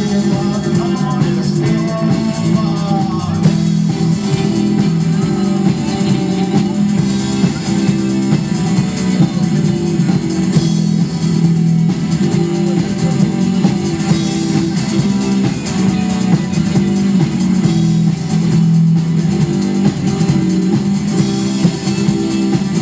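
A rock band playing an instrumental passage, with electric guitar, bass guitar and drum kit.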